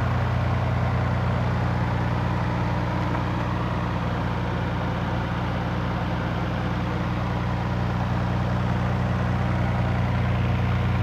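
Nissan R32 Skyline GT-R's RB26DETT twin-turbo straight-six idling steadily.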